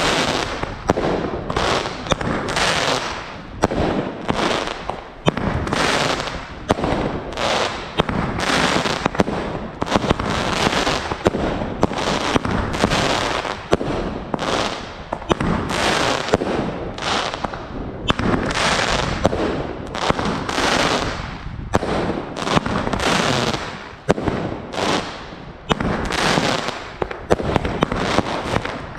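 Fireworks going off without a break: a run of bangs roughly one a second, each followed by crackling, with sharp cracks in between.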